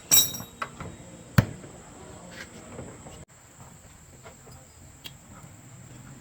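A few sharp clicks and knocks, like parts and tools being handled during repair work: a quick ringing clatter at the start and the loudest knock about a second and a half in, over a steady thin high whine.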